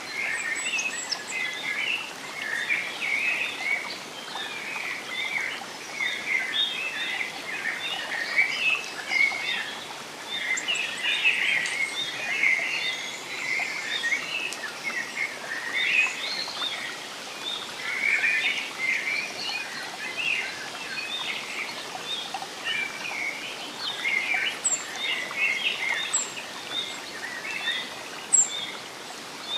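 Many birds chirping and calling in quick, overlapping bursts, with a few higher, thinner chirps near the end, over a soft, steady hiss of water or rain.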